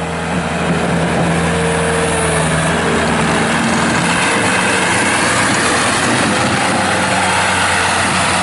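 Bobcat T190 skid steer's Kubota diesel engine running steadily. About four seconds in, the even engine note gives way to a rougher, noisier running sound.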